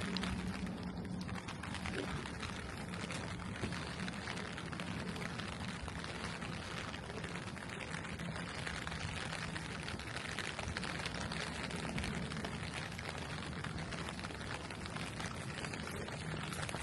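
Steady rain falling, an even hiss of water, with a faint low steady hum underneath.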